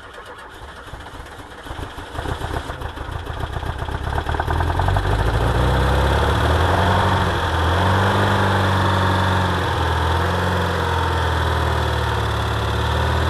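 VW T2 bus's air-cooled flat-four engine catching and picking up over the first four seconds or so, then running with its revs rising and falling a few times before settling.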